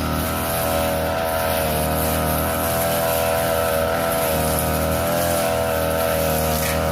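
Small petrol engine of a grass-cutting machine running steadily at high speed while cutting grass, its pitch wavering slightly.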